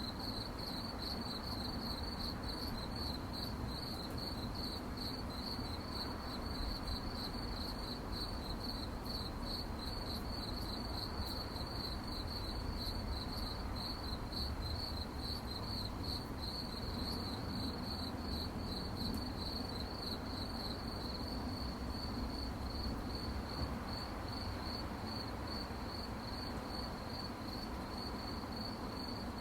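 Crickets chirping at night in a quick, even pulsing rhythm, the chirps merging into a more continuous trill near the end, over a low, steady background rumble.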